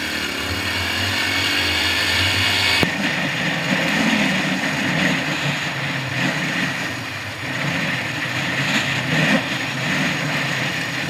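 Small motorcycle engine running while riding, its pitch shifting with the throttle. About three seconds in, the sound changes abruptly to a rougher engine note.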